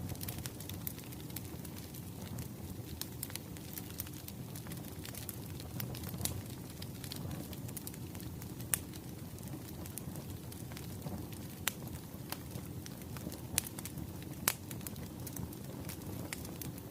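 Wood fire crackling: a steady low rumble of burning logs with frequent sharp snaps and pops, a few of them louder than the rest.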